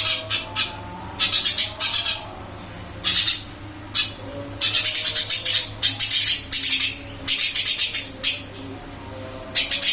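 Eurasian tree sparrow chirping in quick bursts of several high chirps each, a new burst every second or so with short pauses between.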